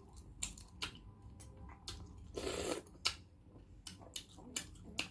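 A balut's eggshell being cracked and peeled by hand, a run of small scattered clicks and crackles, with one short hissy burst about two and a half seconds in.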